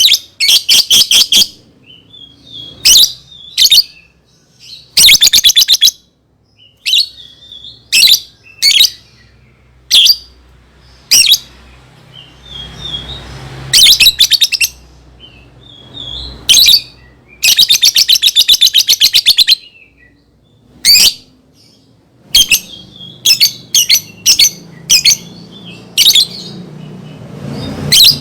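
Lovebird calling: loud, shrill single chirps broken by rapid rattling trills of a second or two, repeated throughout.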